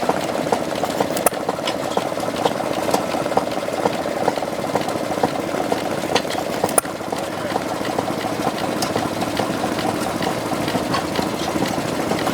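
One-third-scale model of a 5 horsepower Galloway hit-and-miss engine running steadily, with scattered sharp clicks.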